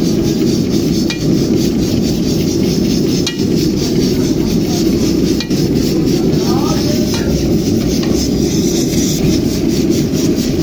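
Chicken frying in a karahi, stirred with a metal spatula, with a few sharp clinks of metal on the pan over a steady low rushing noise.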